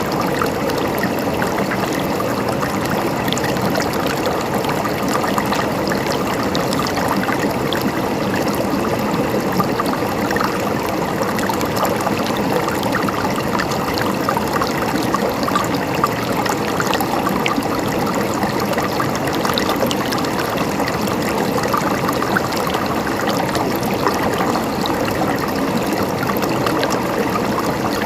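River water flowing steadily over rocks, a continuous rushing and splashing with small trickles through it.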